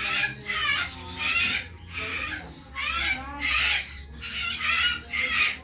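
Parrots squawking: a run of loud, repeated calls, about one a second.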